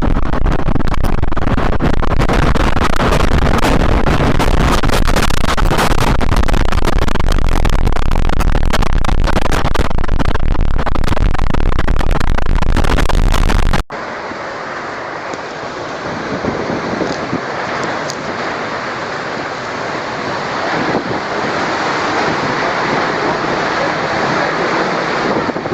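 Strong storm wind buffeting the microphone with a loud, steady rush and heavy low rumble. About fourteen seconds in it cuts abruptly to a quieter, steady rush of wind.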